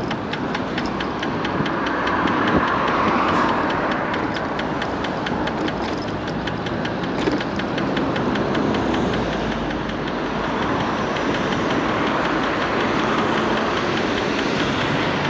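Electric scooter riding with wind and road noise, and a fast, even clicking from the front wheel that turns with it, strongest in the first half and fading later. It is something striking under the front fender, which the rider takes for something like a cable.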